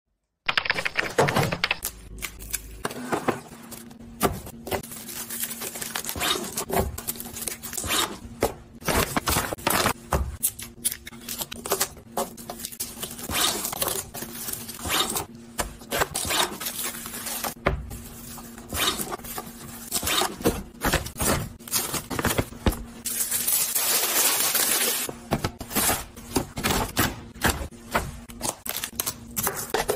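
Groceries, packaging and food containers being handled in a kitchen: a run of clicks, knocks and rustles over a faint steady hum. A few seconds of even hiss come in a little before the end.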